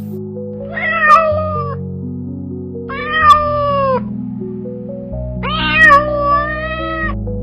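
A domestic cat meowing three times, each meow drawn out for a second or more, over background music.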